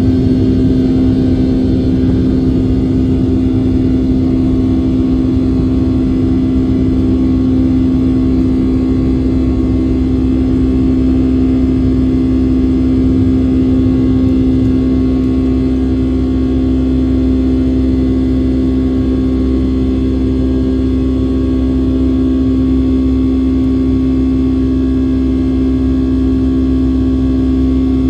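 Boeing 757-200's Pratt & Whitney engines heard from inside the forward cabin: a steady drone with a strong humming tone over a low rumble.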